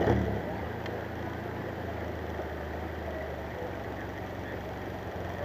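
Triumph TR3's four-cylinder engine with a Monza exhaust, briefly louder with a quick rise in revs right at the start, then running at low revs with a steady low exhaust note as the car creeps forward.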